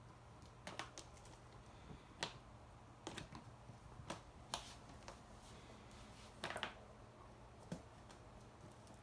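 Three-week-old kittens wrestling: scattered light clicks and scuffs of small paws and claws scrabbling and tapping on a surface, some in quick clusters, over a faint steady hum.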